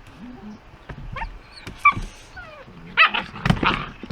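Puppies yipping and whimpering in short high calls while playing, with a louder burst of yelps near the end.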